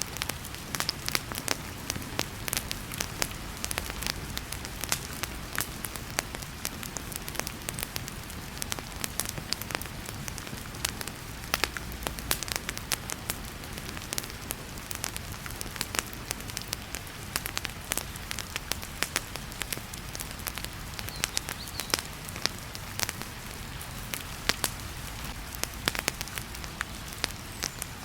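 Wood fire in a fireplace crackling with many sharp, irregular pops over a steady hiss of heavy rain.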